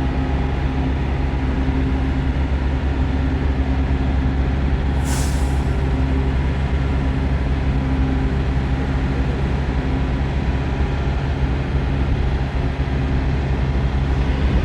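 Semi-truck heard from inside the cab while driving: a steady low engine drone with road noise. A brief, sharp hiss of air comes about five seconds in.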